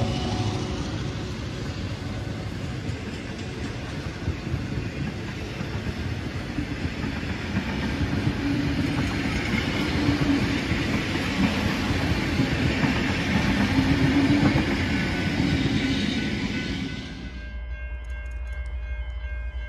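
Passenger carriages of a locomotive-hauled heritage train rolling past close by: a steady rumble of wheels on rail with a busy rattle and clatter. About three-quarters of the way through it cuts off abruptly to a quieter low hum with faint steady high tones.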